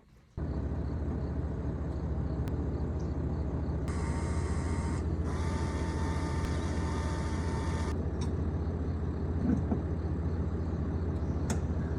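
Vehicle driving: steady engine and road drone heard from inside the cab. A high, steady multi-tone sound sits over it for about four seconds in the middle, with a short break.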